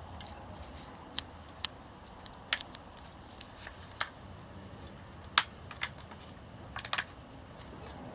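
Small wood fire crackling, with about ten sharp, irregular pops and snaps.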